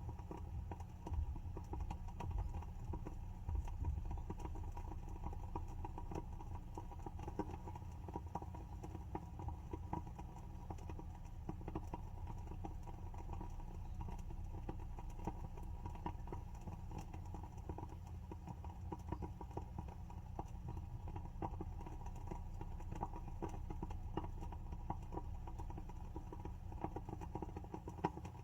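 WoodWick candle's wooden wick crackling as it burns: a dense run of small, irregular pops and ticks over a steady low hum.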